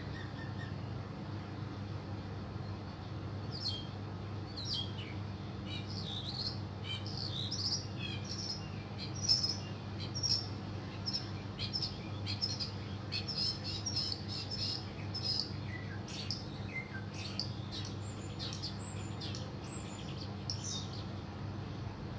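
Songbirds chirping and twittering in quick, high notes, starting a few seconds in and thinning out near the end, over a steady low rumble.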